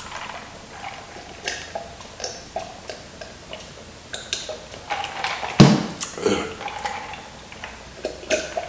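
Close-up mouth sounds of someone eating crispy fried chicken: irregular crunching and chewing clicks, with one louder, deeper mouth sound about five and a half seconds in.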